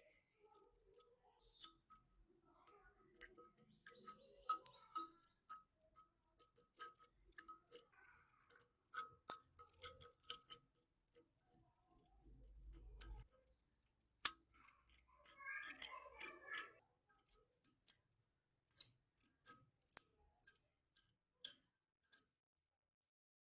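Irregular sharp metallic clicks and scrapes from hand work on a rusty steel tool, some with a faint ring, stopping about 22 seconds in.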